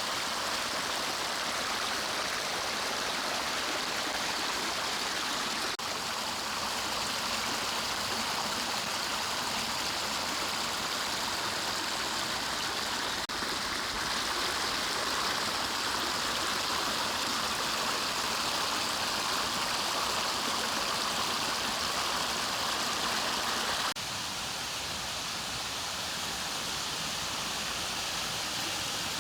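Mountain stream rushing steadily over rocks in a forest valley. The sound changes abruptly three times as the recording cuts between different stretches of water.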